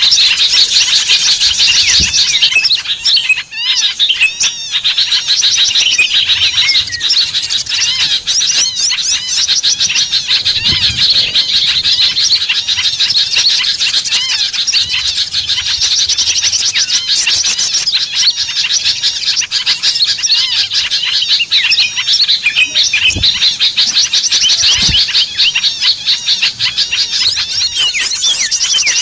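Small birds chirping and twittering without a break: many quick, high-pitched calls overlapping in a dense chorus. It is a lure call meant to draw small birds in.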